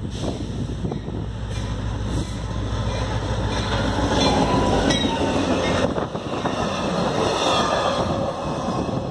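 CSX diesel-hauled track geometry train passing close at speed: the locomotive's engine rumble builds and passes about four seconds in, followed by the louder rush and rattle of the wheels on the rails, with sharp clicks about five and six seconds in.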